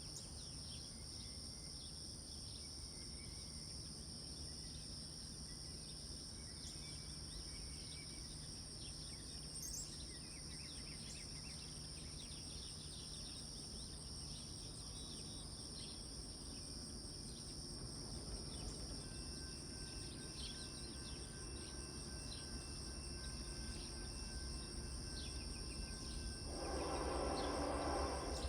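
Steady, high-pitched drone of insects at two pitches over a low rumble. Near the end a louder sound with several pitches comes in.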